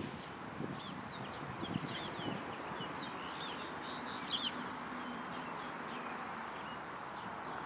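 Small birds chirping, many short quick calls, thinning out after about five seconds, over a steady background hiss.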